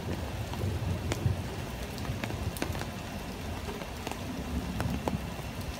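Heavy rain falling in a thunderstorm, with scattered sharp drop clicks and a low rumble of thunder underneath.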